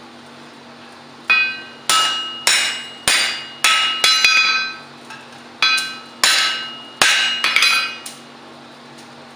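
Blacksmith's hand hammer striking steel on an anvil, about a dozen ringing blows at roughly two a second, in two runs with a short pause between.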